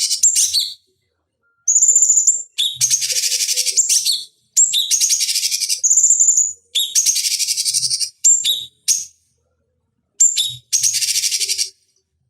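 Cucak cungkok, a leafbird, singing: repeated phrases of a short high whistle followed by a rapid, buzzy trill of about a second, coming again every couple of seconds. It is the loud, persistent song used as a tutor and provocation recording for songbirds.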